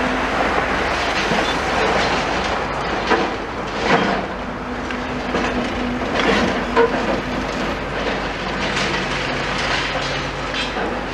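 Demolition excavator with a crusher attachment at work: engine running steadily, with scattered crunches and clanks of masonry and metal being broken.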